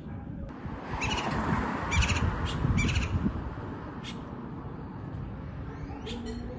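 A bird cawing, crow-like, several times in quick succession, over a steady low rumble.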